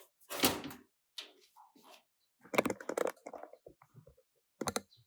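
Handling noise: a scatter of short clicks, knocks and light thuds, in small clusters with short silent gaps between them.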